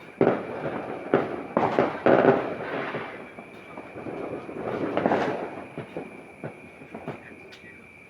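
New Year fireworks going off: a run of sharp bangs in the first two seconds or so, then a rumbling crackle that swells about five seconds in and fades, with a few smaller pops.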